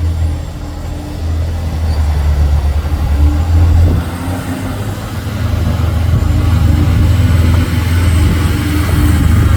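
Heavy diesel engine running with a low, steady drone. It grows louder about a second in, drops back briefly around four seconds, then builds again.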